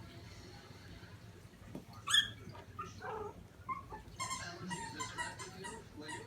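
Five-week-old Shih Tzu puppies yipping and whining at play, with one sharp high yelp about two seconds in and a quick run of high-pitched yips from about four seconds on.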